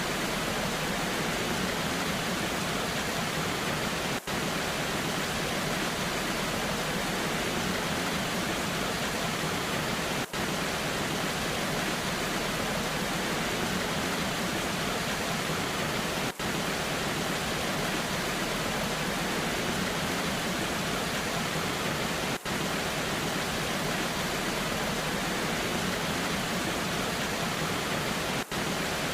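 Waterfall in the rain: a steady, even rush of falling water, briefly dipping in level about every six seconds.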